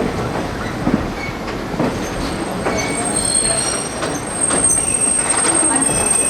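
Railroad cars rolling along the track, with wheel flanges squealing against the rail. Thin high-pitched squeals set in about halfway and grow louder, as on a curve.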